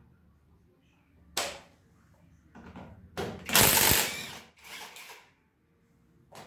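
Metal scooter drive parts being handled on a bench: a sharp knock, then clattering, and a loud rattling clatter a little after the middle, followed by a shorter one and a last click.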